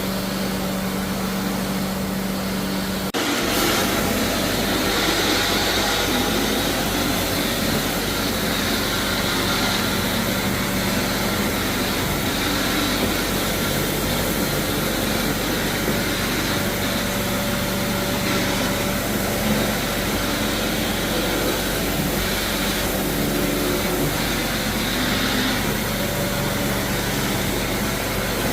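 Floor-cleaning machine running steadily, a loud drone with hiss; the sound changes abruptly about three seconds in, a low hum dropping out and the noise growing slightly louder.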